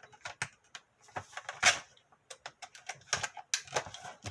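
Irregular sharp clicks and crackles of product packaging being cut open and pulled apart with a Milwaukee Fastback utility knife, with one louder crack about a second and a half in.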